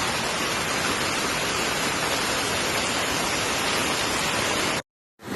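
Steady, even wash of water noise from the flooding, heavy rain and running floodwater. It cuts off suddenly near the end into a moment of silence.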